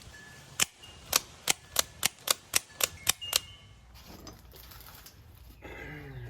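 Krate Tactical "The Ghost" double-action OTF knife being fired out and snapped back repeatedly: about ten sharp, metallic snaps in quick succession, a few tenths of a second apart.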